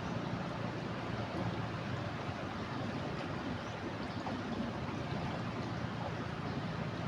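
Steady rush of a swollen river in flood.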